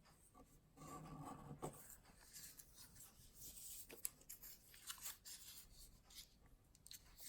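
Faint rustling and creasing of a square sheet of paper being folded by hand, with a few small ticks of the paper.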